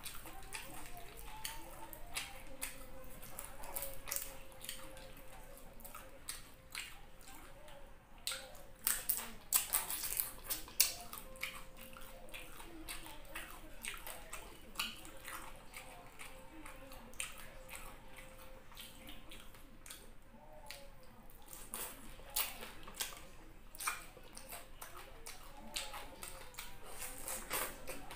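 Close-miked eating of crisp fried tilapia by hand: chewing, lip smacks and sharp crackly clicks, thickest about nine to eleven seconds in.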